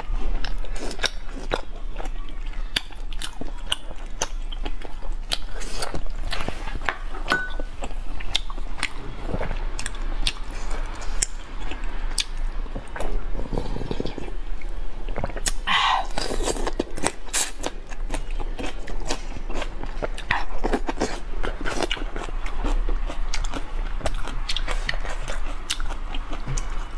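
Close-miked eating sounds from a clip-on microphone: a person biting and chewing soupy food such as bok choy and meatballs, with many small wet clicks and smacks of the mouth.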